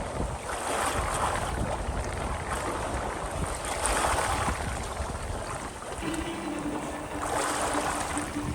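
Wind and sea water rushing past a sailing yacht, surging every few seconds. Plucked guitar music comes in about six seconds in.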